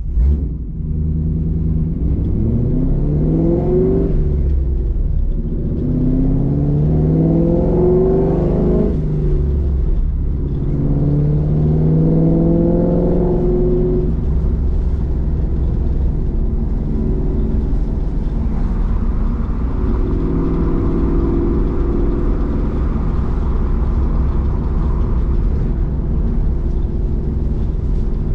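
Roush Mustang engine heard from inside the cabin, pulling through the gears: the engine note rises three times, dipping briefly between each pull as the manual gearbox is upshifted. It then settles into a steady cruise.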